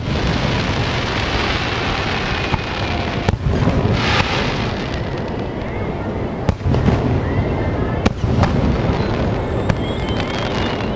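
Fireworks display: aerial shells bursting in a dense barrage, with several sharp bangs, about three, six and a half and eight seconds in, over continuous crackling and rumble.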